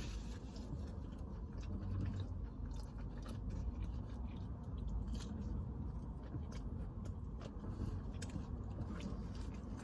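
A person chewing a mouthful of food close to the microphone, with many small wet mouth clicks and light crunches.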